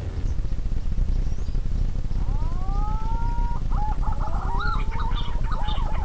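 A steady low rumble on the microphone, with a bird's whistled call starting about two seconds in: a run of rising, wavering whistled notes.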